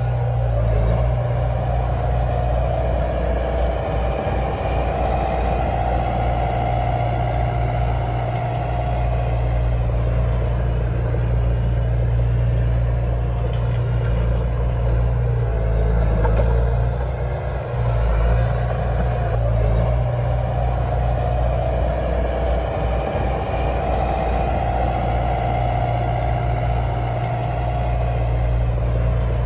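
Diesel engine of heavy earthmoving machinery running steadily with a deep rumble, a whine rising and falling in strength twice.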